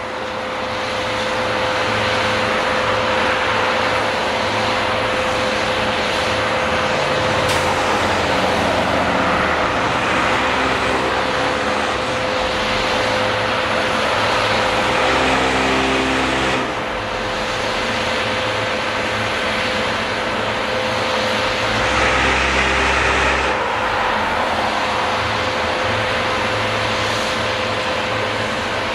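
Kenworth dump truck's diesel engine running with a steady hum from the vibrator mounted under the bed as the load of concrete is dumped. The engine comes up for several seconds in the middle and again briefly later on.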